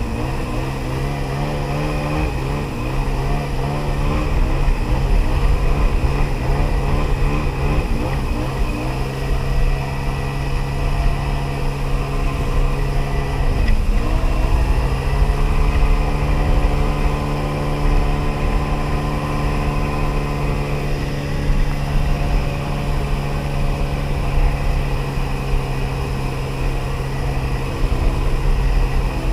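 1994 Sea-Doo XP personal watercraft's 80 hp two-stroke engine running at cruising throttle. Its pitch wavers over the first several seconds, then steadies. About halfway through there is a brief dip in pitch as the throttle eases, then picks back up.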